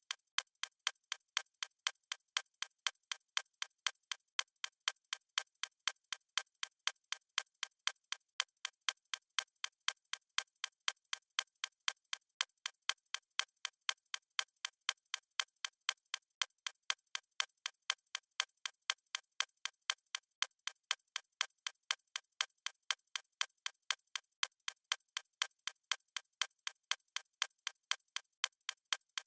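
Stopwatch ticking sound effect: fast, evenly spaced, thin clicks that keep a steady pace without a break.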